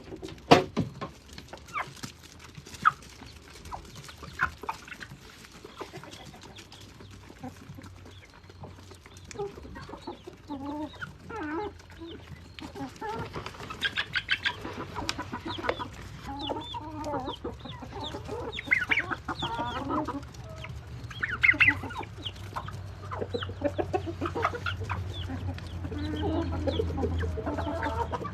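A flock of chickens clucking, with short calls coming thick and overlapping through the second half; a few sharp knocks sound in the first few seconds.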